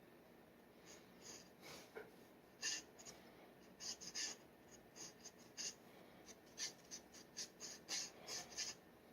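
Steel G-nib dip pen scratching across paper in a run of short, quick strokes, starting about a second in and stopping shortly before the end.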